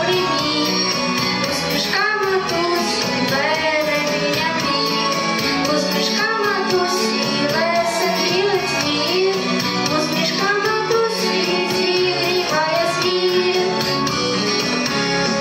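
A song: a voice singing a melody over instrumental backing music.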